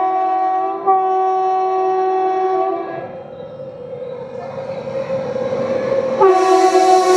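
WAP-7 electric locomotive's horn sounding a long blast, broken briefly and sounded again until about three seconds in, while the rumble of a fast express grows louder. About six seconds in, the train arrives with a sudden rush of noise and a third horn blast whose pitch drops as it passes.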